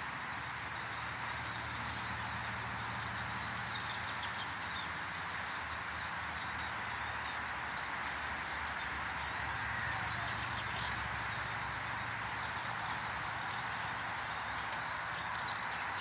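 Outdoor ambience: a steady background hiss with a few faint, short bird chirps, one about four seconds in and more around nine to ten seconds.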